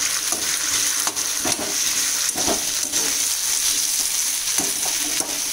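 Diced potatoes sizzling steadily in hot sesame oil in a metal wok, with a perforated steel spoon stirring and scraping them across the pan several times.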